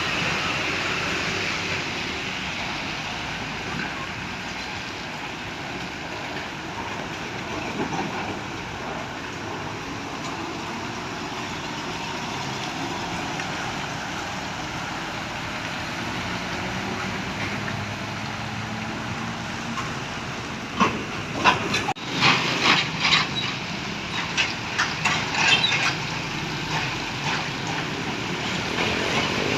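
Heavy trucks running on a road: a steady rumble and hiss of engines and tyres. About two-thirds of the way through comes a quick run of sharp clicks and knocks lasting a few seconds.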